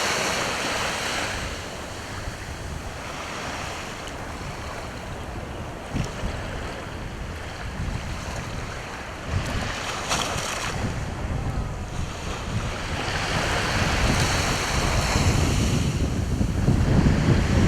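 Sea waves washing onto the shore, swelling and fading in several surges, with wind buffeting the microphone as a low rumble that grows strongest near the end.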